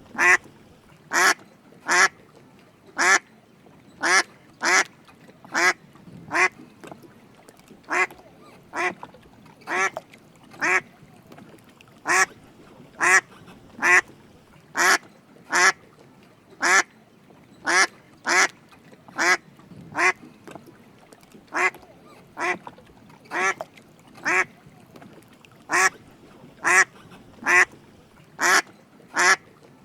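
Drake mallard quacking: short, evenly spaced calls repeated a little more than once a second.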